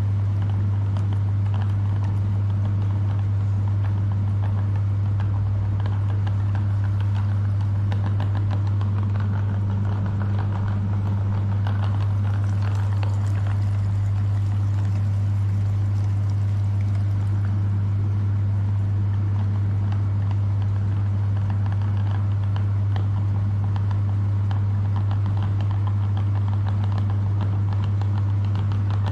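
Electric meat grinder's motor running steadily with a low, even hum, with faint crackling from the grinding.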